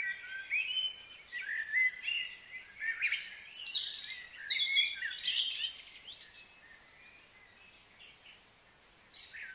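Several wild birds singing and calling, with many overlapping high chirps and whistles. They thin out about six seconds in and pick up again near the end.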